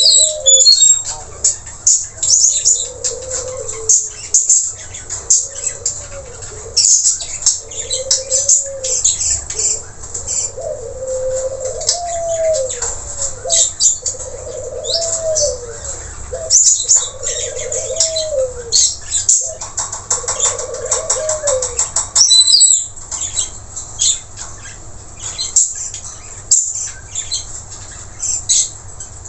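Long-tailed parakeets (nuri tanau) calling continuously with rapid, harsh, high-pitched chattering and screeches. Under them a lower note rises and falls, repeated every second or two.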